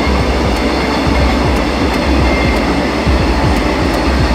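Taiwan Railway electric multiple-unit commuter train running past over a concrete bridge: a loud steady rail noise with repeated short clicks of the wheels over the track.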